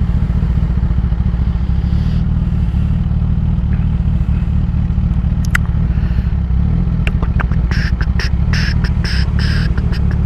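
2016 Kawasaki ZX-10R's inline-four engine with a Graves race exhaust idling steadily, heard from the rider's helmet. A run of quick, evenly spaced high ticks joins it near the end.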